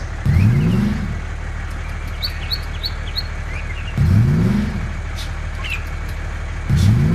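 A truck engine running with a steady low drone, revving up three times with a short rising pitch. Birds chirp faintly in the background.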